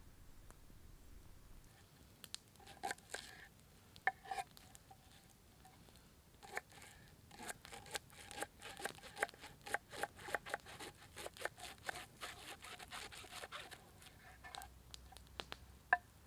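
A knife chopping on a board: scattered strokes at first, then a quick run of about three sharp cuts a second, each with a short ringing note, tailing off near the end.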